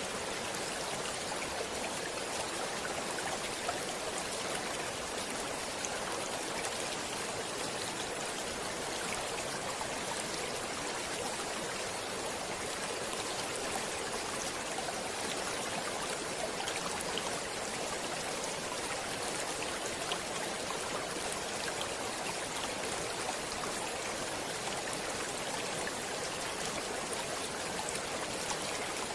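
Water of a stream flowing steadily, an even rushing with small scattered splashes and drips.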